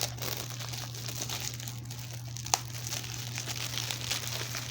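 Plastic shrink-wrap being torn and peeled off a DVD case: a dense, crackling crinkle with one sharp click about two and a half seconds in.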